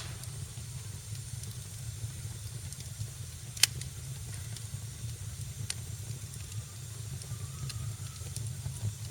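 Wood fire burning in a fireplace: a steady low rumble of flames with a hiss and scattered small crackles, and one loud, sharp pop about three and a half seconds in.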